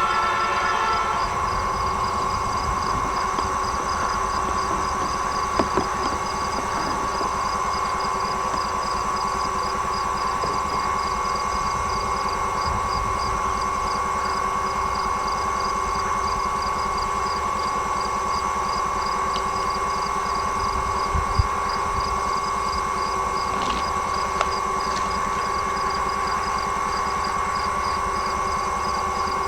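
A train horn sounds and stops about a second in. After that comes a steady hum and noise with one constant tone, a faint rapid pulsing, and a few small knocks.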